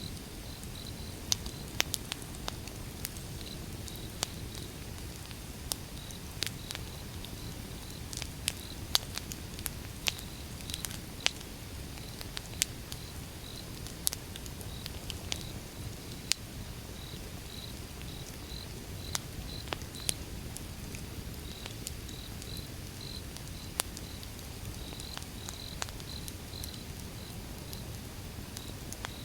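Wood fire crackling and popping, with sharp irregular snaps over a steady low rumble of the flames. A cricket chirps faintly in pulsing bursts throughout.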